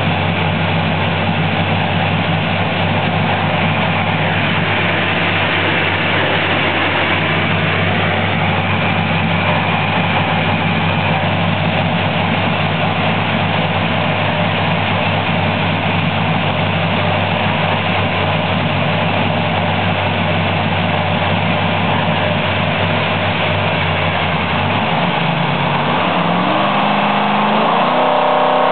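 565-cubic-inch big-block Chevrolet V8 race engine on an engine dyno, running at a steady idle, then climbing in revs over the last few seconds as the dyno pull begins.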